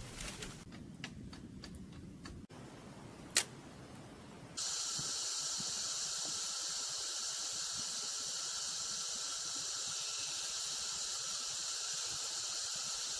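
Rainforest insect chorus: a steady, high, shrill drone that cuts in abruptly about four and a half seconds in. Before it there is a quieter stretch with a few faint clicks and one sharp click.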